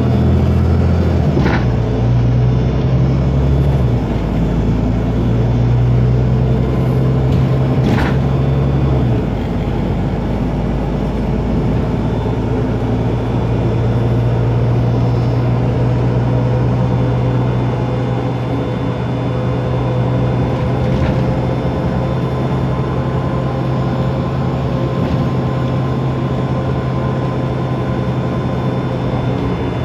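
Otokar Kent LF city bus's Ford Ecotorq Euro 6 diesel engine running with its Voith DIWA automatic gearbox. The engine note changes pitch a few times in the first ten seconds, then holds steady, with a faint whine drifting above it. There are two sharp clicks, one near the start and one about eight seconds in.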